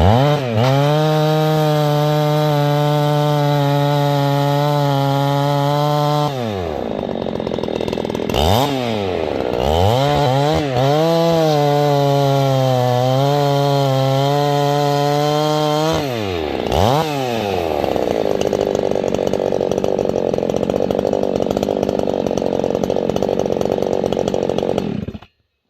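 Husqvarna 390 two-stroke chainsaw cutting through a dirt-covered Douglas fir round, bogging slightly under load. Twice it drops off and revs back up. Near the end the sound cuts off abruptly.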